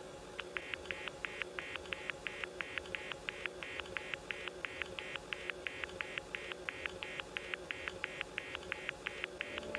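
Telephone disconnect tone heard from the handset after the other end has hung up: a long run of short, rapid beeps, about four a second, over a faint steady hum. Low music comes in near the end.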